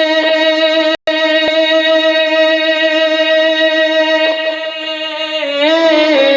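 One long sung note held at a steady pitch in a devotional recitation, bending into a wavering melodic turn near the end. The sound cuts out for an instant about a second in.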